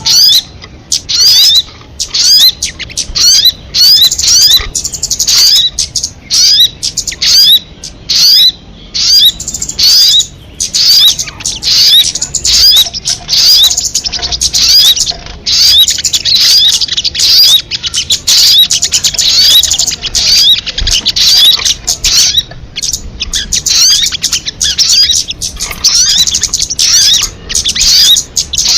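Recorded song of the sogon bird, kamade type: a rapid, continuous chatter of high, quick chirping notes in dense bursts with brief pauses.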